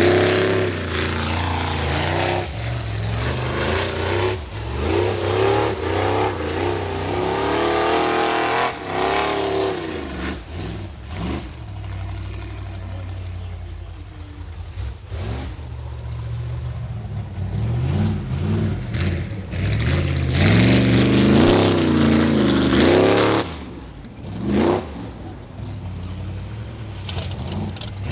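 High-horsepower rock bouncer buggy engine revving hard, its pitch repeatedly climbing and falling as the throttle is worked on a climb. The loudest run of revs comes about two-thirds of the way through and cuts off suddenly, followed by one short blip of throttle.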